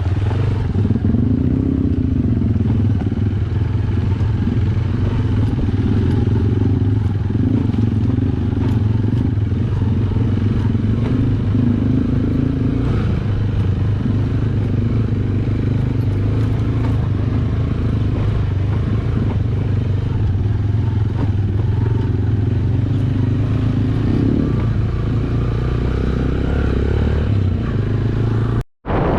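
Yamaha YBR125G motorcycle's single-cylinder 125 cc four-stroke engine running steadily under way, with wind and road noise. The sound cuts out briefly near the end.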